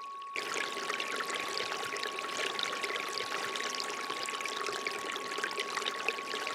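Water pouring and trickling steadily from a bamboo fountain spout, with a steady pure tone (the 528 Hz frequency track) sounding underneath. The water sound drops out for a split second at the very start while the tone carries on.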